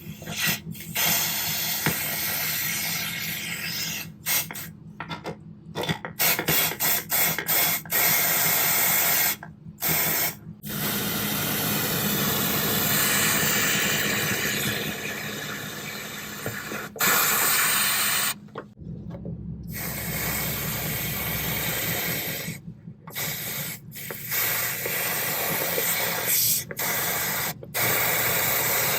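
Garden hose spray nozzle spraying water, loud and hissing, flushing out clogged truck-bed drains. The spray stops and starts many times, with short cuts and longer pauses.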